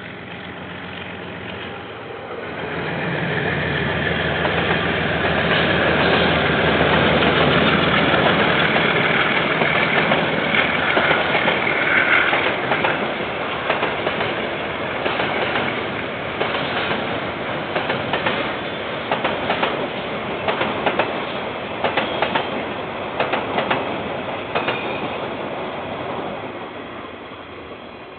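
KiwiRail diesel train passing close by. The locomotive's engine builds and runs loud over the first half. Then the wagons' wheels clack over the rail joints in uneven runs of clicks, and the sound fades away near the end.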